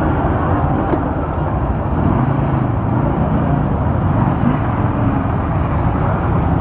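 Steady low rumble of motor vehicles running, with street noise around it and no break or change.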